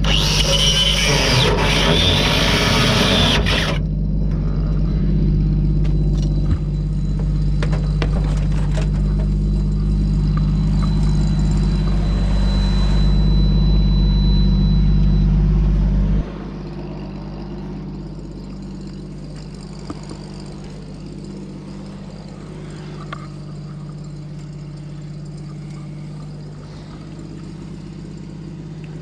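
Angle grinder's cut-off disc cutting through thick steel chassis rail for about four seconds, then stopping. A steady low mechanical hum runs underneath throughout and drops sharply in level a little past halfway.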